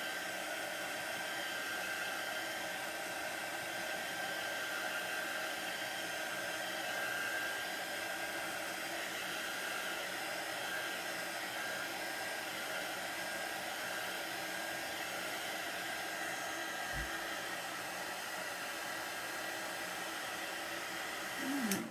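Handheld hot-air dryer running steadily, an even blowing noise with a faint steady whine, drying freshly applied chalk paste. It switches off just at the end.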